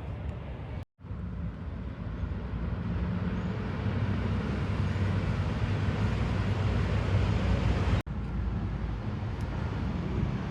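Steady outdoor background noise with a low rumble, broken by two very brief dropouts to silence, about a second in and near eight seconds in.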